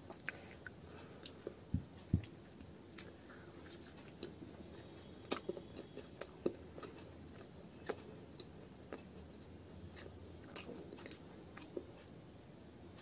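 A person chewing a bite of fried mooli (radish) kachori close to the microphone: irregular soft crunches and wet mouth clicks, a few louder ones about two and five seconds in.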